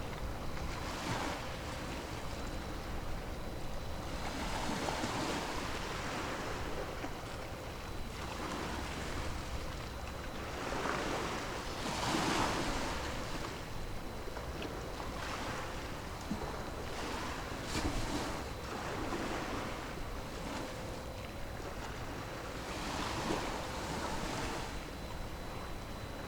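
Small waves washing in every few seconds, each swell a rise of hiss that fades away, over a steady background of wind.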